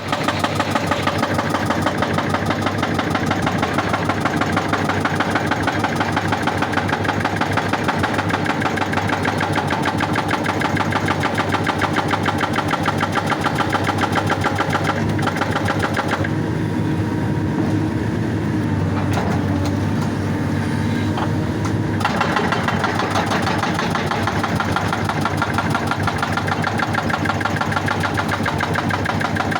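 Excavator-mounted hydraulic rock breaker hammering rock in fast, even blows over the excavator's diesel engine. For several seconds past the middle the sharp hammering eases and mostly the engine is heard, then it picks up again.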